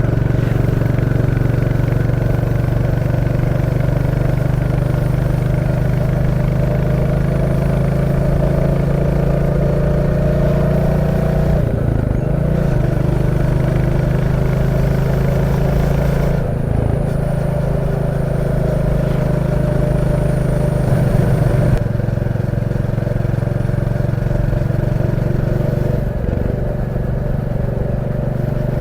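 Royal Enfield Classic 350's 349cc single-cylinder engine running steadily while the motorcycle is ridden, its note dipping briefly three times along the way.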